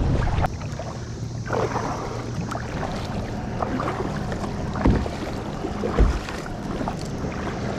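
Kayak on the water: a steady wash of water and outdoor noise, with two short knocks, a second apart, about five seconds in, like a paddle or gear bumping the hull.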